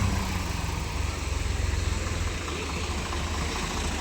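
Swaraj 855 FE tractor's diesel engine running steadily, a low throb.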